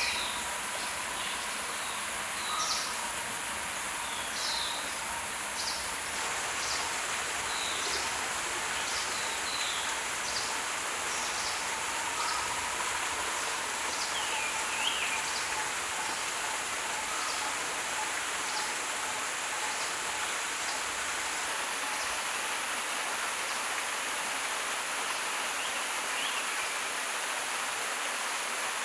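Forest ambience: a steady high hiss with birds chirping over it again and again, a short call every second or so for much of the time.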